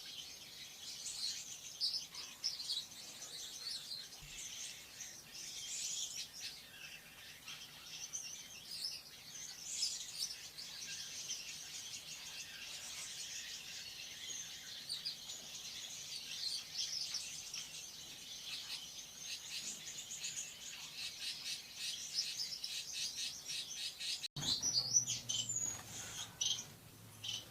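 Lovebird chattering in a continuous stream of shrill, rapid chirps. Near the end the sound breaks off abruptly, and a low hum comes in under sparser chirps.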